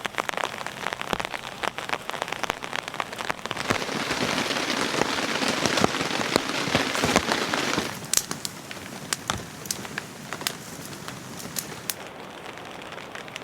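Rain falling and pattering on a surface: heavy and dense for the first eight seconds or so, then easing to lighter rain with separate drops heard one by one.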